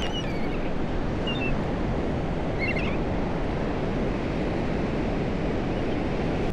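Ocean surf washing steadily with wind buffeting the microphone, and three short high bird calls in the first three seconds.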